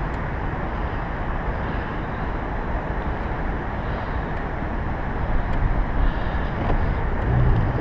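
Steady rushing wind buffeting the microphone on an open boat, an even low rumble with little above it.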